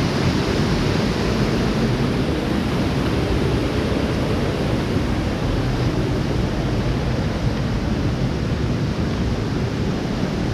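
Steady rush of a mountain creek and its cascades, an even wash of water noise with no change throughout.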